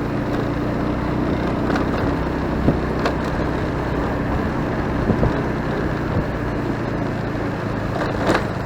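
Motorcycle engine running steadily while riding through city traffic, with road noise and a few short knocks.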